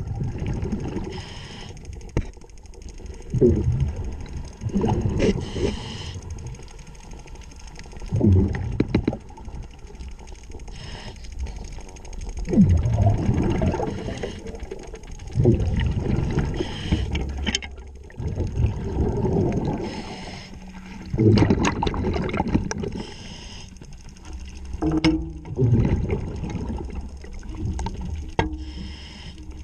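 Underwater scuba breathing: a diver's regulator and exhaled bubbles surging every few seconds, with a few faint clicks between breaths.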